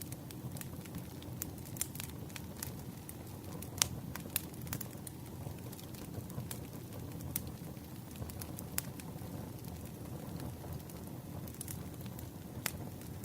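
Wood campfire burning, with irregular sharp crackles and pops over a steady low rumble; the loudest pop comes about four seconds in.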